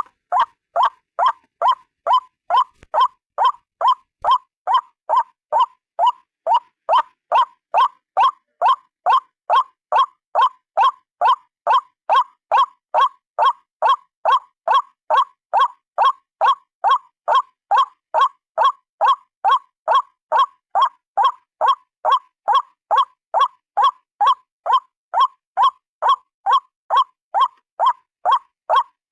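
White-breasted waterhen calling its repeated 'ruak' note about twice a second in an even, unbroken series.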